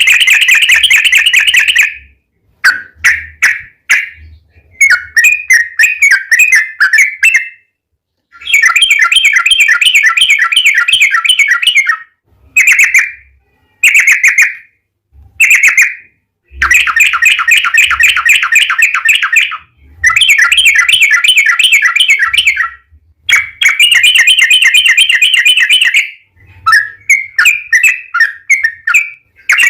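Yellow-vented bulbul (trucukan) singing in long rapid rolling phrases, each a fast run of bubbly notes lasting one to four seconds, with short pauses between them.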